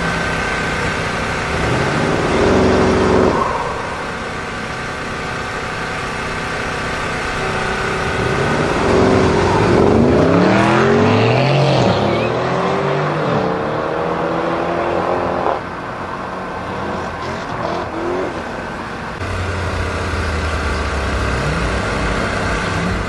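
BMW Alpina B7 Biturbo's twin-turbo V8 and a Mercedes sedan's engine at a drag-race start: a short rev about two seconds in, then both cars launch hard, engine pitch climbing and dropping through several upshifts before cutting off. Near the end an engine rumbles at idle.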